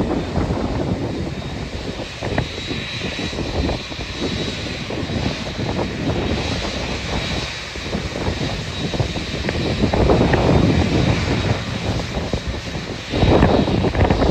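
Jet aircraft engines running with a steady high whine, under gusts of wind buffeting the microphone.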